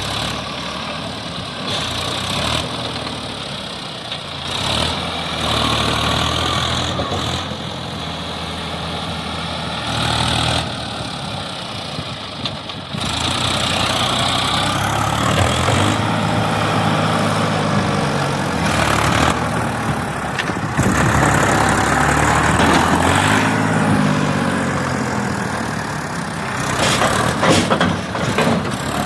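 Heavy vehicle engine running, its pitch rising and falling as the revs change, with the sound changing abruptly several times.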